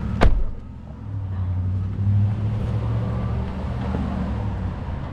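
A sharp knock as the recording phone is fumbled and nearly dropped, then a car engine running steadily with a low hum.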